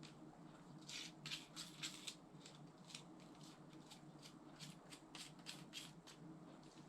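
Faint, irregular clicking and rattling of small hard parts being handled, likely a baitcasting reel being worked on during cleaning, densest over the first few seconds and thinning out.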